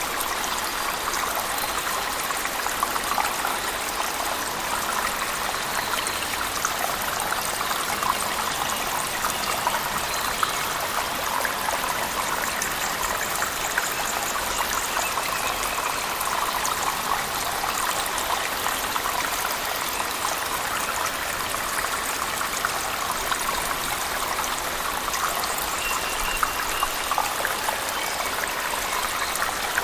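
Cave waterfall and heavy rain: a steady rush of falling water dotted with many small splashes and drips, unchanging throughout.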